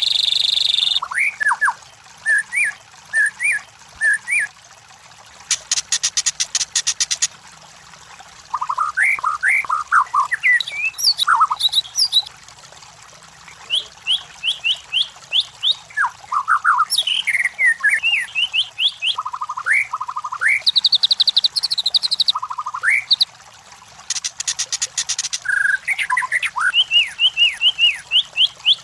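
White-rumped shama (murai batu) singing: varied phrases of quick whistled notes that rise and fall. The song is broken twice by a fast buzzing rattle lasting a second or two.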